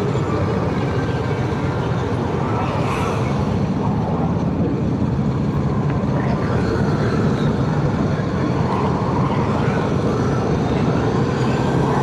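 Motorcycle engine running steadily while riding at a constant speed, with road and wind noise.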